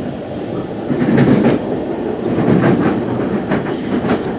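West Coast Express commuter train running between stations: a steady rumble of wheels on the track with several clickety-clack clicks as the wheels pass over the rails, louder from about a second in.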